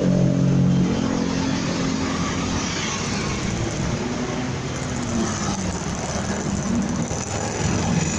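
Motorcycle engine running while riding, with steady wind and road noise. The engine note holds steady for the first couple of seconds, then rises and falls several times.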